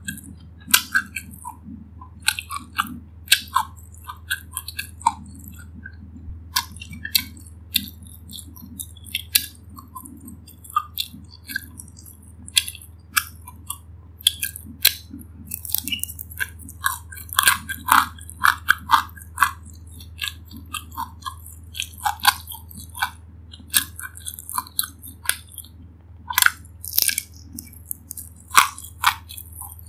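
Close-miked chewing and biting of a crispy pan-fried dumpling: irregular crunches and wet mouth clicks several times a second, busiest about halfway through, over a faint steady low hum.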